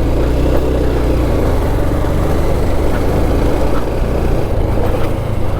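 Motorcycle engine running steadily under load as the bike climbs a hill road.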